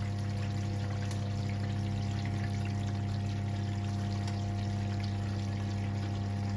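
1978 Siemens WA4600 washing machine pumping water out: the drain pump hums steadily under the sound of water pouring and trickling.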